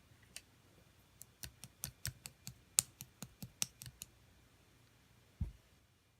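Slime being squished and poked by hand, giving a quick, irregular run of sharp clicks and pops, then a soft low thump about five seconds in.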